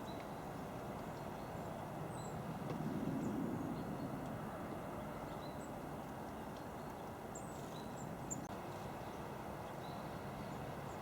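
Steady low outdoor background rumble that swells for a second or so about three seconds in, with scattered short, faint high chirps of small garden birds and a single click near the end.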